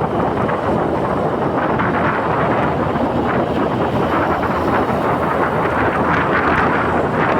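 Honda Beat scooter's single-cylinder engine and exhaust running steadily under way, mixed with wind rushing over the camera microphone.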